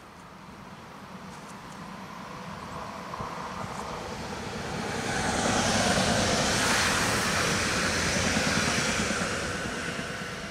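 ÖBB Talent electric S-Bahn train passing on the rails: a rushing wheel-and-rail noise that swells, is loudest about six seconds in, then fades as it moves away.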